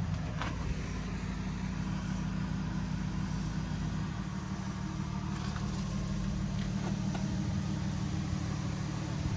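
Diesel truck engine idling steadily, a low even hum, with a few faint clicks about halfway through.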